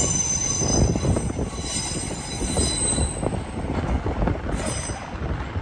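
Train wheels squealing on the rails over a run of low knocks from the wheels. The high squeal dies away about halfway through, and the train's sound fades toward the end.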